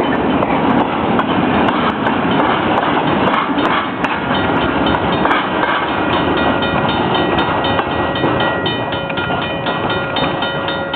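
A train passing at a street crossing, a steady rumble and clatter of wheels on rail. About halfway through, a bell starts ringing rapidly and evenly alongside it.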